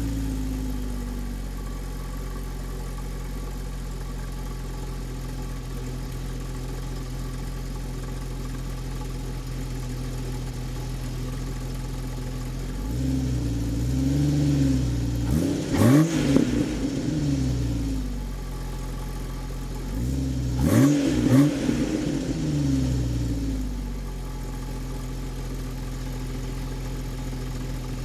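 1996 Jeep Grand Cherokee's 4.0-litre straight-six, running on LPG, idling through a custom stainless side-exit exhaust with the catalytic converter removed. The engine is revved twice, about halfway through and again a few seconds later, each rev rising and then falling back to a steady idle.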